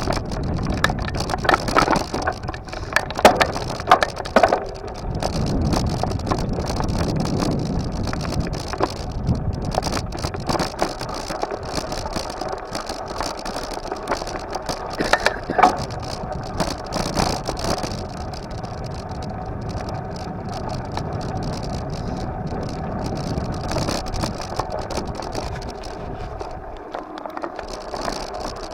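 Ongoing noise of a bike ride: rolling road noise with frequent rattles and knocks from the bike, busiest in the first few seconds.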